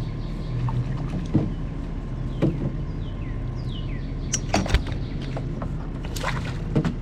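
Sharp knocks and taps on a canoe, about half a dozen of them, loudest a little before the five-second mark, as a small bass is landed, over a steady low rumble.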